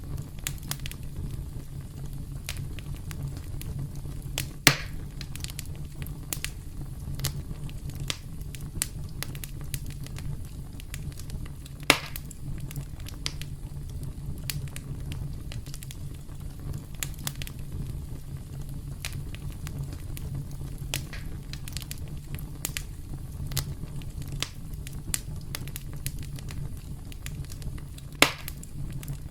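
Campfire crackling steadily over a low rumble of flames, with many small snaps and three louder pops spread through.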